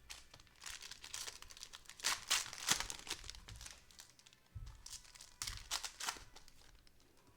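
Cellophane wrapper of a pack of football trading cards being torn open and crinkled, in two spells of rustling, the second starting about four and a half seconds in.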